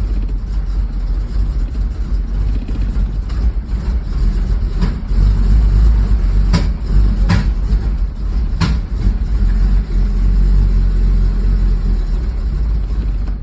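Porsche 911SC's air-cooled flat-six running roughly, unsteady from vacuum leaks, with four sharp backfire pops across the middle. The sound cuts off suddenly at the end.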